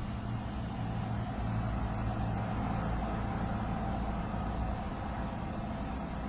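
Steady low rumble of distant late-night traffic, a little louder in the middle, under a steady hiss and the thin high-pitched whine of the camera's hard drive, which shifts pitch about a second in.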